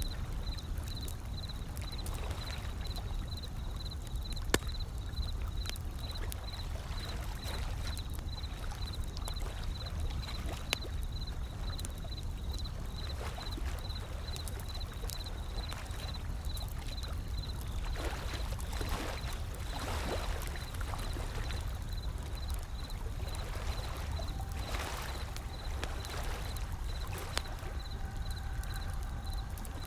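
Wood fire crackling with scattered sharp pops over a steady low wash of ocean waves rolling in.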